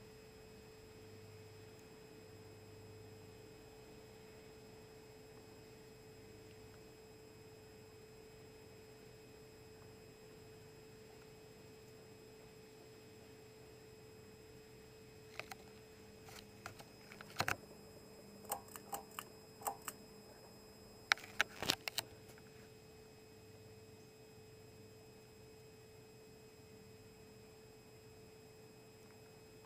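FASCO Charleston stack-motor ceiling fan running on low speed: a faint, steady motor hum with one held tone. Between about 15 and 22 seconds in, a run of sharp clicks.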